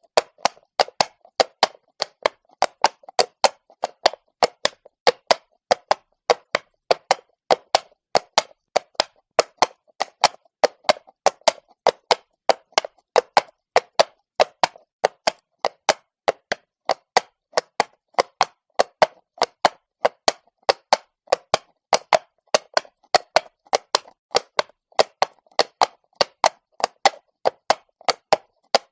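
Horse walking on cobblestones, its shod hooves clopping in a steady, even rhythm of about three to four hits a second.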